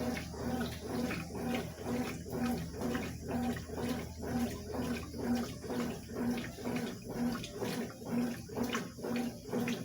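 Consul CWS 12 washing machine agitating a load of coloured clothes in water: a rhythmic back-and-forth slosh with a motor hum, about one and a half strokes a second.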